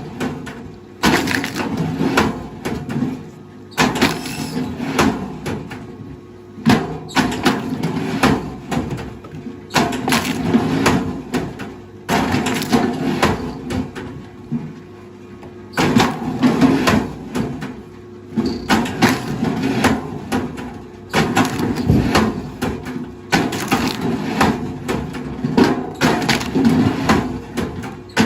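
Wood cracking and splintering as heavy machinery crushes and breaks it, in repeated bursts of one to three seconds with short quieter gaps between.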